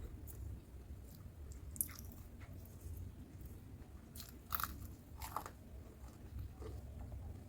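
A person biting and chewing crunchy food close to the microphone, with a few sharp crunches about two, four and a half and five and a half seconds in.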